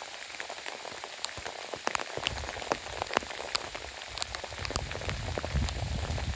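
Soft rain falling, a steady hiss dotted with many separate drops ticking close by. From about two seconds in a low rumble runs underneath.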